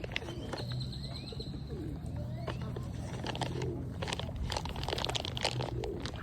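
Feral pigeons cooing while being fed peanuts, with a brief high bird chirp and scattered short clicks over a low steady hum.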